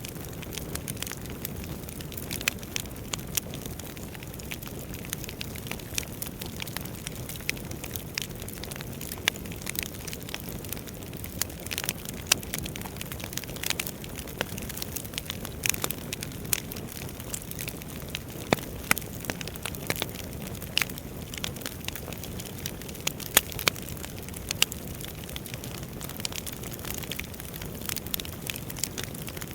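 Wood fire burning in a fireplace, crackling and popping irregularly over a steady low rush of the flames.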